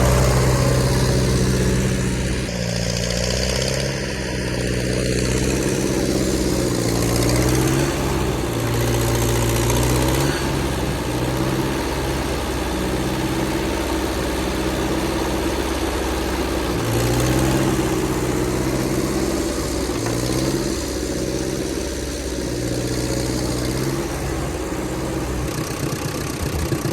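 Ford half-track tractor's four-cylinder flathead engine running, its speed rising and falling several times.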